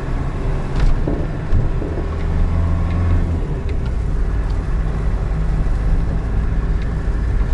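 GAZelle Next van driving over a badly broken road: a steady low engine and road rumble with a few short knocks as the van jolts over the rough surface.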